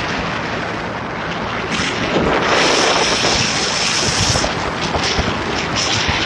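Motorboat under way: a steady engine drone and rushing water under heavy wind buffeting on the microphone, growing louder about two seconds in.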